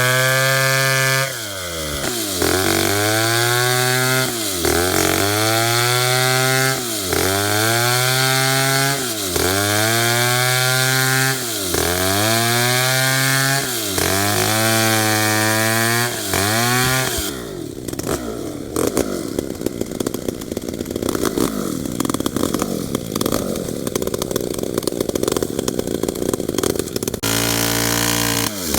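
Two-stroke chainsaw cutting tembesu hardwood at full throttle, its engine pitch sagging and recovering about every two seconds as the chain bites and frees. About two-thirds of the way in, the sound turns rough and noisy for about ten seconds, then the steady engine pitch returns near the end.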